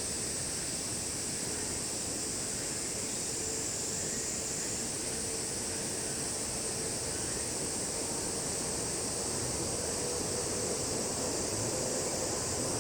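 A steady, high-pitched chorus of summer insects drones on without a break, over a low rumble of distant background noise.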